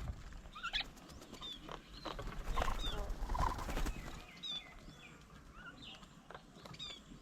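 Several birds chirping and calling, short whistled notes and quick glides, some in quick descending runs, with a low rumble partway through.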